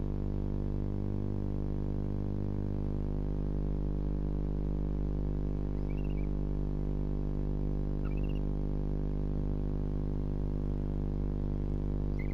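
A steady electrical hum with a dense row of overtones, the loudest thing throughout. Over it come a few faint, short, high chirps from the barn owls, about 6 and 8 seconds in and again near the end.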